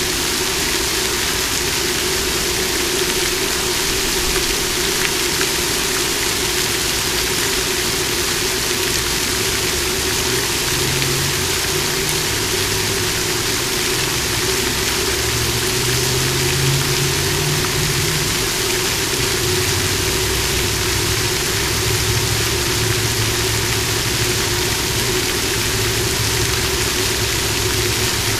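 Water fountain splashing steadily, with a steady low hum underneath.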